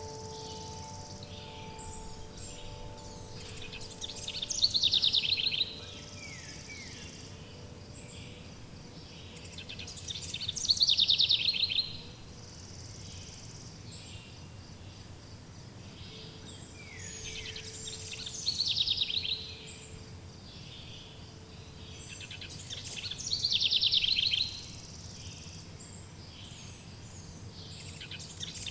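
Songbird singing a short, rapid trilled phrase four times, about every six seconds, over a steady low background hiss. Soft wind-chime tones ring and fade in the first few seconds and return faintly past the middle.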